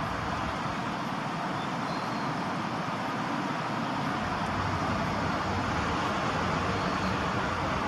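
Steady road traffic noise, a continuous rush with a low rumble that grows a little louder about halfway through as a vehicle draws near.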